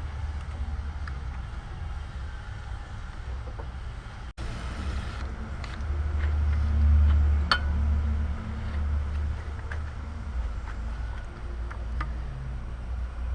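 Hand work on car engine-bay parts: a few light clicks and snaps over a low steady rumble, the rumble swelling for a couple of seconds midway.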